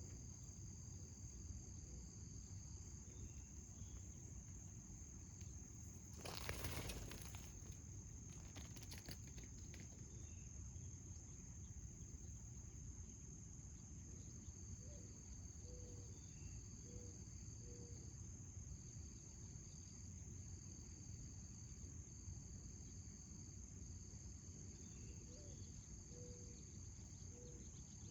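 A faint, steady high trill of insects in a garden, with a second, broken trill joining in and out. About six seconds in there is a brief burst of noise, the loudest moment, and a few faint short low chirps come in the second half.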